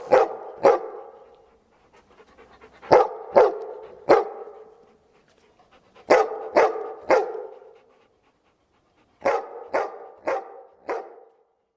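A dog barking in four short bouts of three or four barks each, the bouts about three seconds apart, each bark trailing off in an echo.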